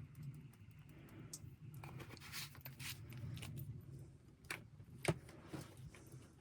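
Faint rustling and light clicks of items being handled while cooking, with one sharper click about five seconds in, over a low steady rumble.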